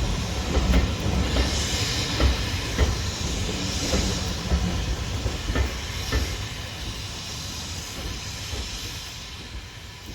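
Steam locomotive, a rebuilt Bulleid Merchant Navy Class 4-6-2, working away under steam with its exhaust beats and steam hiss, and sharp clicks from the wheels on the rails, fading steadily as the train draws away.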